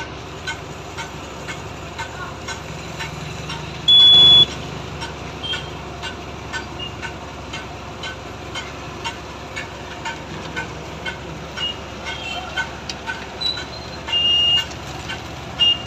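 Steady engine hum of heavy construction machinery with traffic noise. A short, loud, high-pitched beep sounds about four seconds in, and another high beeping tone comes near the end.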